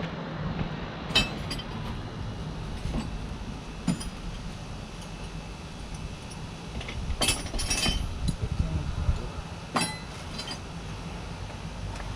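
Metal tools and fittings being handled: sharp metallic clinks and knocks scattered through, with a cluster of them about seven to eight seconds in, over a low steady hum.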